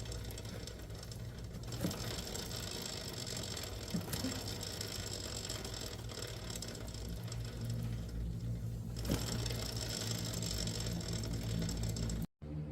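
Steady mechanical clatter over a low hum, with a few sharp knocks, like hand tools working on a motorcycle part.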